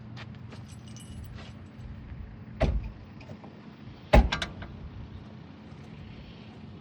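Two loud knocks about a second and a half apart, with light clicks and rattles before them, over a low steady hum.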